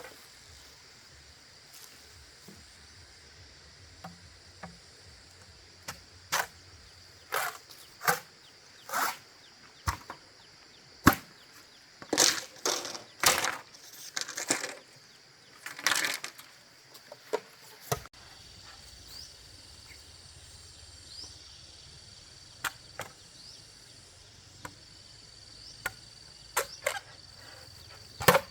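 Irregular sharp chopping strokes on wood, some hard and some light, spaced unevenly, over a faint steady high insect drone.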